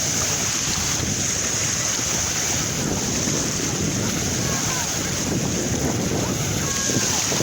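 Sea surf washing in steadily, mixed with wind rushing on the microphone.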